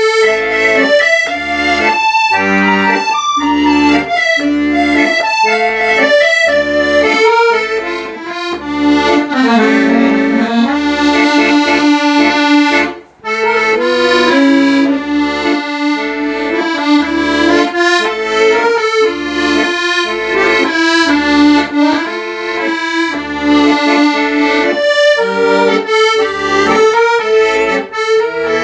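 Accordion music: a melody with chords over a steady pulsing bass. It breaks off for a moment about 13 seconds in, then carries on.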